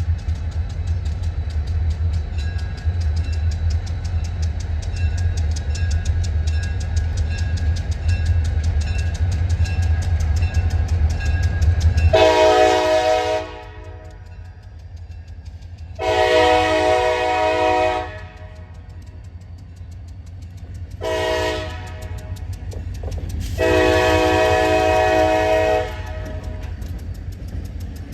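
Wheeling and Lake Erie freight train's diesel locomotives rumbling as they approach. About twelve seconds in, the horn sounds the grade-crossing signal: two long blasts, a short one, then a final long one.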